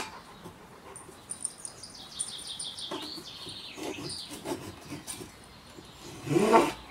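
Small birds chirping, with a few faint scrapes of a hand saw in wood in between, and a brief louder rising sound near the end.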